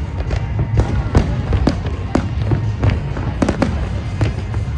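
Fireworks bursting in quick, irregular succession, about two sharp bangs a second over a steady low rumble.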